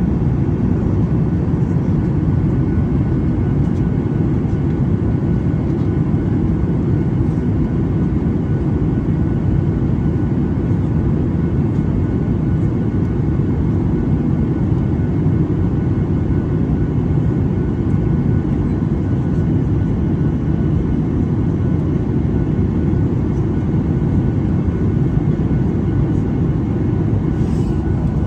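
Steady cabin noise of a jet airliner in flight: a deep, even rumble of engines and airflow with a faint steady whine above it.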